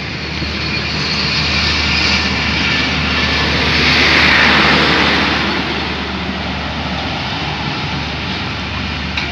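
Departing passenger train's coaches rolling past on the rails, with a steady low hum and a loud rushing noise. The noise swells to its loudest as the train's power van, with its generator, goes by about four seconds in, then eases as the last coach pulls away.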